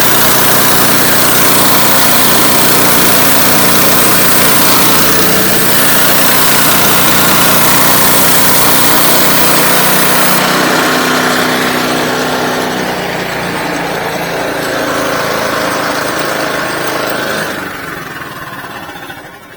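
Engine-driven sawmill running under load as its blade cuts through an oak log. About halfway the high hiss of the cut drops away and the sound eases, and near the end the engine winds down.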